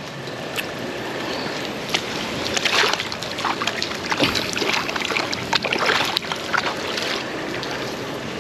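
Steady rush of a rain-flooded creek, with irregular brief splashes and knocks over it.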